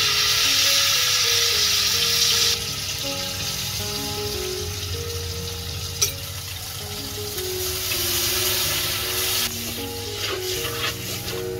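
Hot oil sizzling as food fries in a steel wok, loudest for the first two and a half seconds, then a lower steady sizzle. A metal spatula clinks once against the wok about six seconds in, and scrapes around it near the end.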